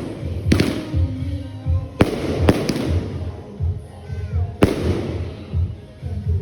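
Fireworks going off: four loud bangs, two close together in the middle, each trailing off briefly. Background music with a steady beat plays underneath.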